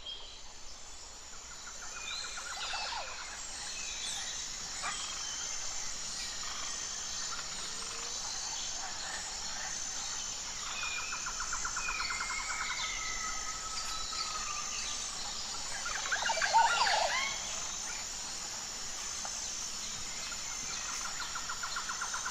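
Birds calling and insects chirping, over a steady high-pitched insect buzz. Short trills come back every several seconds, and a louder call with quick sweeps stands out about sixteen seconds in.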